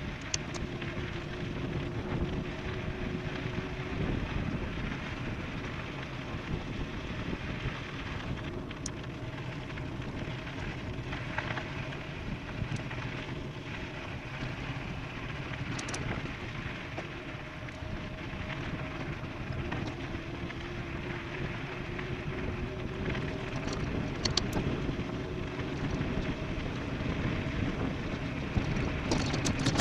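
Wind rushing over the microphone and tyre noise from an e-bike riding fast downhill, a steady noisy roar. A faint steady whine comes and goes, with a few light clicks or rattles, and the noise swells near the end.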